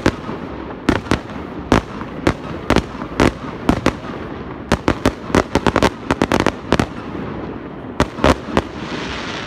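Fireworks going off: a rapid, irregular string of sharp bangs, about two to three a second, with a hissing crackle near the end.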